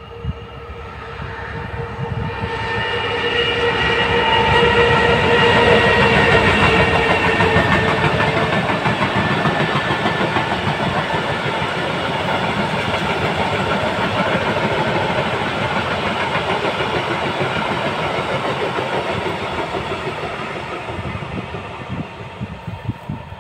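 Class 66 diesel locomotive passing at speed with a freight train: its engine note with a steady whine grows to its loudest about six seconds in, then gives way to the continuous rolling noise and clickety-clack of the wagons going by, easing slightly near the end.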